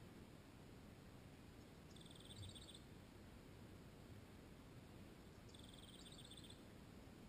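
Near silence with a faint low background rumble. Twice, about two seconds in and again near six seconds, a distant bird gives a short, rapid high trill lasting under a second.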